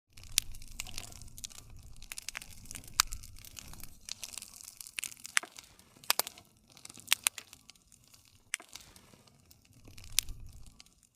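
Wood fire crackling: irregular sharp pops and snaps over a steady rush of burning, with a soft low rumble underneath. The loudest snaps come about three seconds in and again around six to seven seconds.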